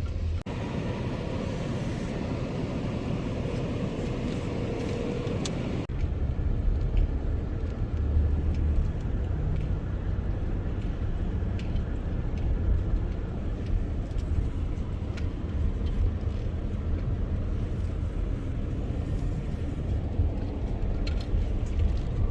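A car driving, with a steady low road-and-engine rumble; the sound changes abruptly about six seconds in.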